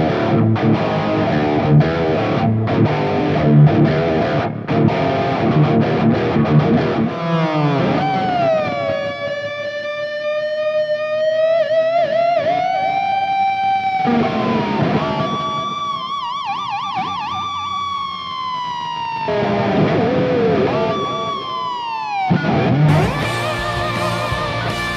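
Kramer Focus VT-211S electric guitar played with distortion: fast riffing, then long sustained lead notes with pitch bends and wide vibrato, and fast riffing again near the end.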